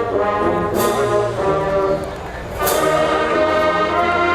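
HBCU marching band brass section playing loudly, trombones and trumpets in full chords, with two sharp percussion hits about two seconds apart; the band eases off briefly before the second hit.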